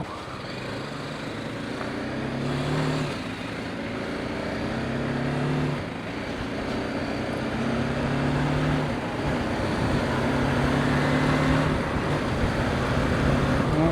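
Motorcycle engine running at a steady speed, its note holding level with small shifts in pitch, under a constant rush of wind and road noise.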